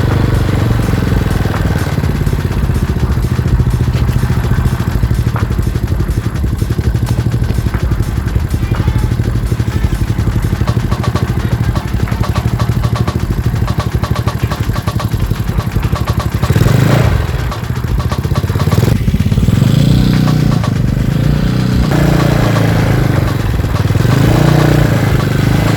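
Modified Yamaha Mio scooter's single-cylinder four-stroke engine running with a steady putt-putt beat likened to a klotok boat engine, its revs swelling up and falling back a few times in the second half.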